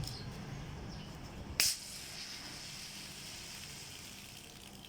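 A shaken plastic Coke bottle opened with one sudden sharp hiss about a second and a half in, then fizzing that slowly fades as the gas escapes.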